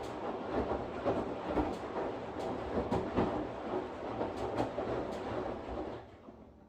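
Washing machine running, its drum churning with a steady rumble and scattered light clicks and knocks; the noise drops away abruptly about six seconds in.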